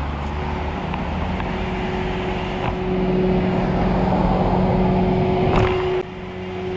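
A vehicle engine running steadily with a low hum, over a haze of road noise; a short knock, then the sound drops suddenly in level about six seconds in.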